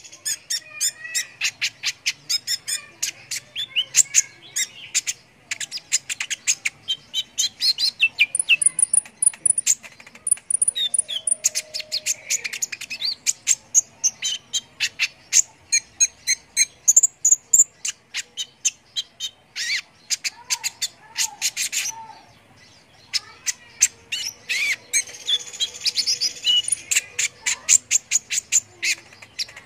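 Konin sunbird singing in a fast, continuous run of sharp, high chirps and ticks mixed with short trills, breaking off briefly about two-thirds of the way through before starting again.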